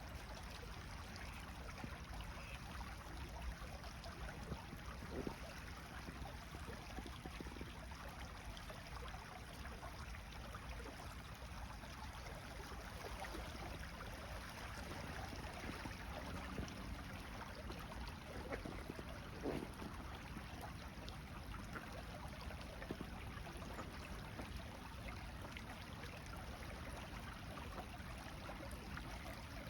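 Faint, steady sound of flowing water, like a stream, with a few brief soft knocks.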